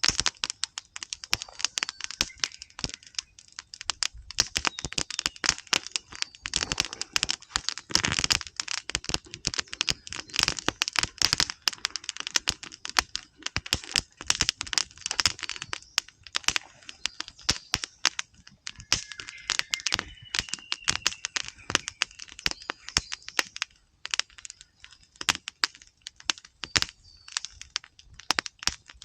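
Wood campfire crackling, with irregular sharp pops and snaps coming thick and fast, thinning out somewhat in the last third.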